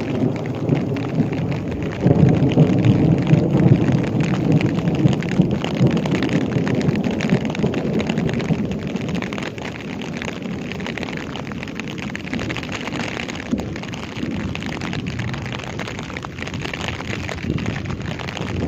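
Heavy rain pouring down, a dense crackling patter, under a low rumble that swells suddenly about two seconds in and slowly dies away.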